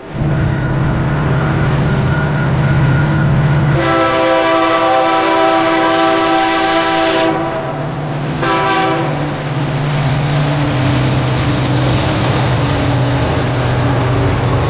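Diesel freight locomotive passing close, its engine running loudly, with the air horn sounding one long blast about four seconds in and then a short blast.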